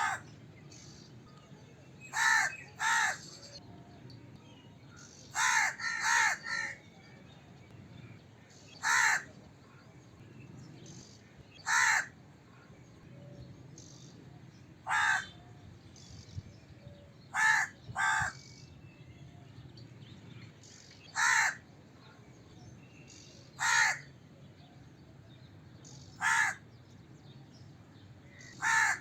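Crow cawing: harsh caws given singly, in pairs or in threes, a group every two to three seconds.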